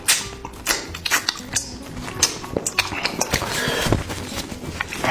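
A person eating close to the microphone, chewing and slurping with irregular clicks and smacks.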